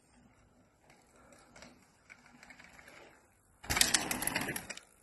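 Faint ticking, then about three and a half seconds in a loud burst of dense rattling and rushing noise lasting just over a second, as a mountain bike is ridden past over the dirt track.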